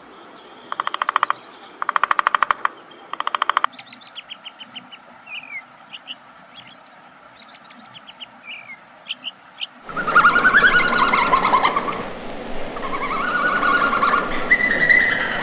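A woodpecker drumming on a tree trunk in three short rapid bursts, followed by a European robin's thin, high chirps and short falling notes. From about ten seconds in, louder wavering animal calls take over over a noisy background.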